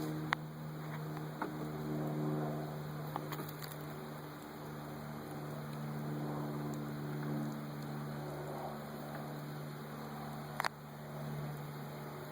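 Honeybee swarm humming around the hive box, a steady drone that swells and eases, agitated after being shaken in. A few light clicks and one sharper knock near the end from the hive parts.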